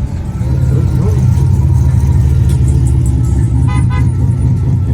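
Loud, steady low rumble of a modified car's engine and exhaust running close by. A short higher-pitched sound comes in briefly about four seconds in.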